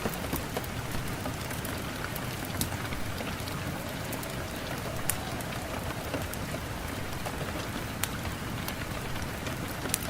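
Steady rain falling, with the sharp taps of individual drops striking a surface scattered throughout.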